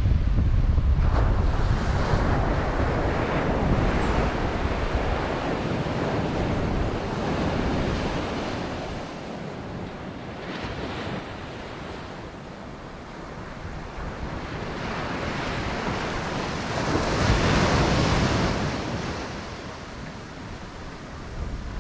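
Ocean surf breaking and washing in: a steady wash that swells and eases, loudest at the start and again about two-thirds of the way through. Wind buffets the microphone, adding a low rumble.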